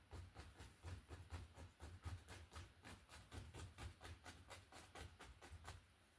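A paintbrush tapping highlights onto a tree on a canvas: a quick, even run of soft taps, about four a second, that stops near the end.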